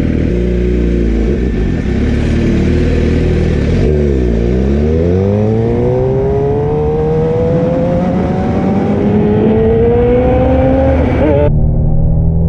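750 cc sport bike engine accelerating hard for a wheelie: the revs dip about four seconds in, then climb steadily through one long pull. Near the end the sound changes abruptly to a lower steady drone.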